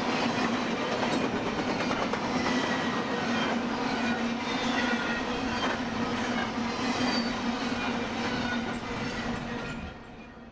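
Double-stack intermodal freight cars rolling past: a steady rumble and rattle of steel wheels on rail, with a faint wavering wheel squeal. The sound drops away sharply near the end.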